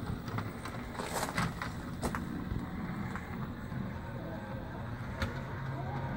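O gauge model J50 locomotive's electric motor running as it moves along the garden layout, a steady low drone with a few sharp clicks from the wheels and track.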